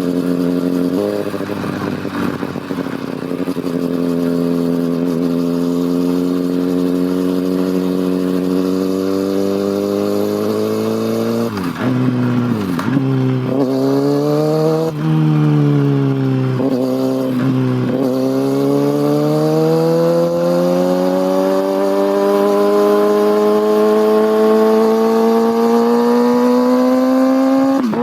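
Kawasaki ZX6R inline-four sport bike engine pulling under way, its exhaust note rising slowly in pitch. About halfway through, the pitch drops and recovers several times in quick succession, as gears change and the throttle is rolled off and on. It then climbs steadily in one long pull to the end.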